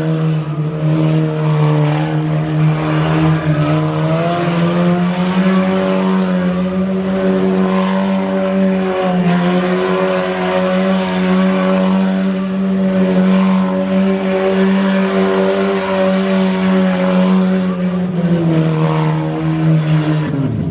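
Car engine held at steady high revs while the tyres spin in a burnout, with tyre squeal and hiss over it. The revs lift slightly a few seconds in and drop away sharply at the very end.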